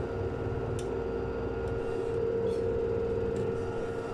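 LG washing machine spinning at about 1000 rpm: a steady motor whine over a low, pulsing drum rumble, growing a little louder about two seconds in.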